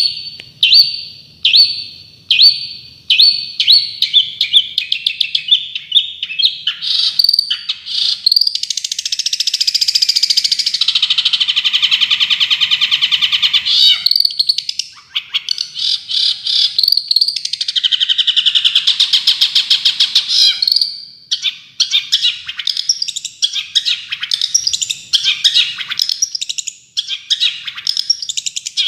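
Songbird singing loud 'tembakan' song: sharp repeated notes that speed up into long rapid trills, followed by varied fast chattering phrases.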